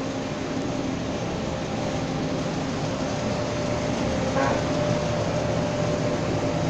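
Steady hum and hiss of restaurant machinery, with a few steady tones running through it.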